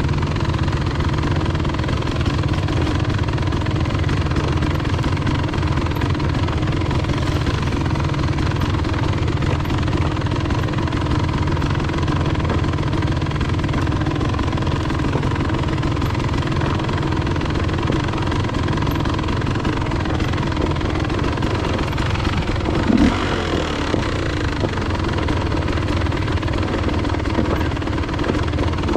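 Enduro dirt bike engine running at a steady pitch, with a short thump about 23 seconds in.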